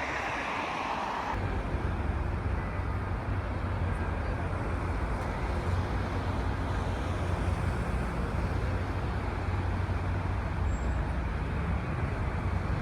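Road traffic noise with a steady low engine rumble that sets in about a second and a half in.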